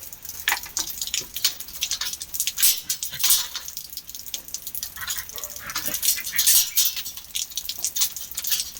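A pet dog making a string of short, irregular scratchy and clicking sounds.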